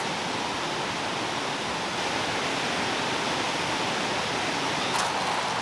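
Steady rushing of a valley stream flowing over rocks, with a faint click near the end.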